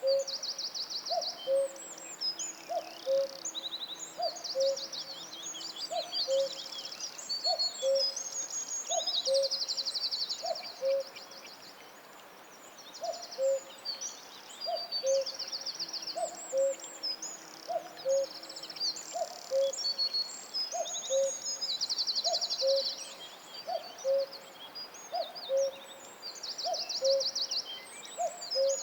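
Forest birdsong: a low two-note call repeats a little under once a second, with one short pause, under several songbirds singing fast, high trills and chirps.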